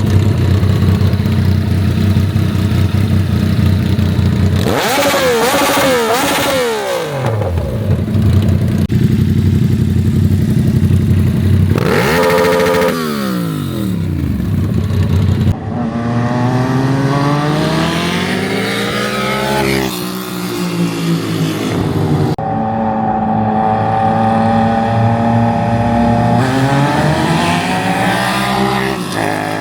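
Yamaha MT-07's 689 cc parallel-twin engine running on rollers. It starts out steady, then revs up and down in quick blips, and later makes long climbing pulls where the pitch rises for several seconds before dropping back.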